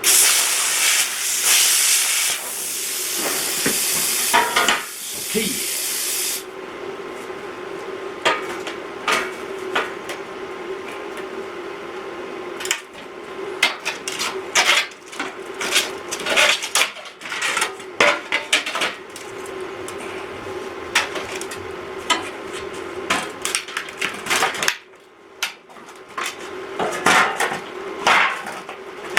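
Metalwork on scrap steel and rebar: a loud hiss for about six seconds that cuts off sharply, then a long run of metal clanks and knocks as steel pieces are struck and handled, over a steady low hum.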